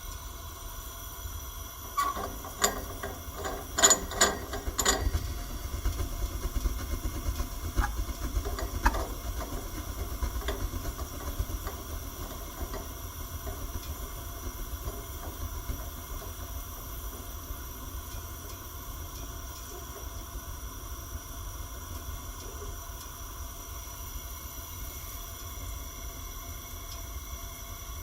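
EFM furnace converted to gas, running with a steady low rumble. A burst of loud metallic clicks and knocks comes about two seconds in, a few weaker knocks follow, and then lighter irregular ticking thins out. This is the noise that the furnace is making.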